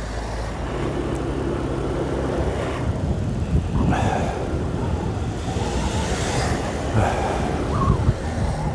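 A 125cc learner motorcycle's engine running while riding in town traffic, with road and wind noise; the engine note is held steady for the first few seconds, then rises and falls.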